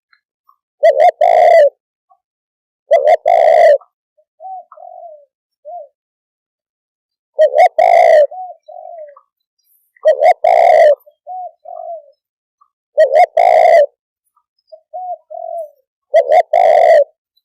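Spotted dove cooing: six loud coo phrases, one about every three seconds, with softer short coos between several of them.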